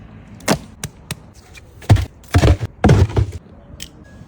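A series of knocks and heavy thuds: a few light, sharp knocks in the first second, then three louder, deeper thuds close together about two to three seconds in.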